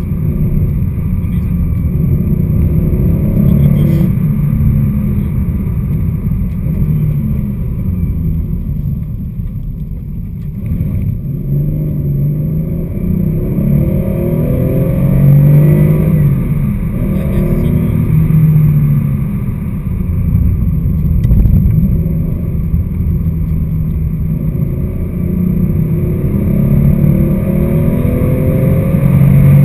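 Porsche 911 SC's air-cooled 3.0-litre flat-six heard from inside the cabin under hard rally driving, the revs repeatedly climbing and dropping through gear changes. The engine eases off briefly about ten seconds in, then pulls hard again.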